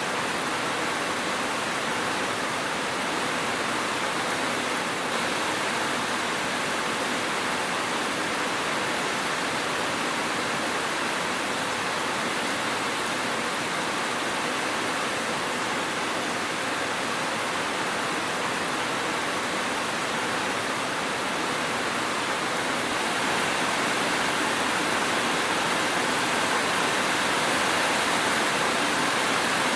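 Steady rain, an even hiss with no separate drops or thunder, growing a little louder about two-thirds of the way in.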